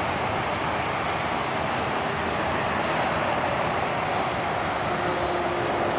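Steady rushing noise of highway traffic, with a faint hum joining in about four seconds in.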